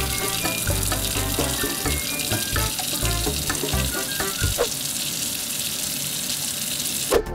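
Kitchen tap running a steady stream of water into the sink; the water sound cuts off suddenly near the end.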